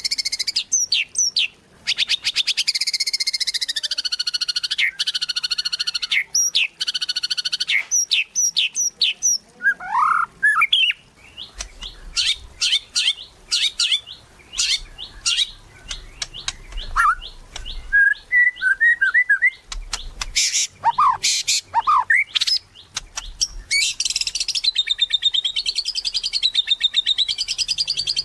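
White-rumped shama (murai batu) singing a varied song: long, very fast trills at the start and again near the end, with runs of short sharp notes and a few whistled glides in between.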